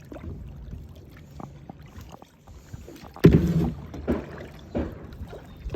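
Kayak paddling sounds: low water sloshing and handling noise, with a loud knock about three seconds in and two softer knocks after it.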